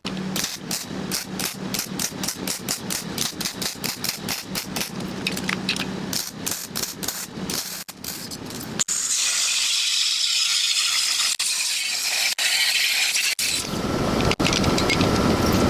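Welding and grinding on steel plate, in several short cuts: a rapid rhythmic pulsing about five times a second through the first half, then a steady high hiss, then a steady whine over broad noise near the end, as when an angle grinder runs.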